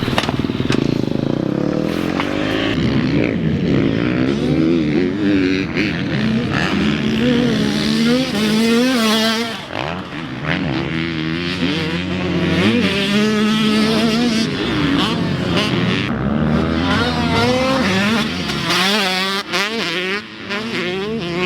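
Motocross dirt bike engines running on the track, their pitch rising and falling as the riders open and close the throttle.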